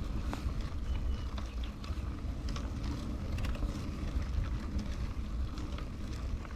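Bicycle rolling over gravel, with a low steady rumble of wind on the microphone and many scattered small clicks and crunches.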